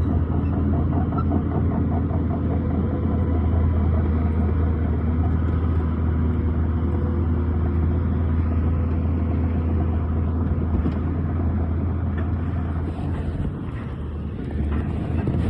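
Heavy diesel engine of landfill earthmoving equipment running steadily with a deep drone, dipping briefly near the end.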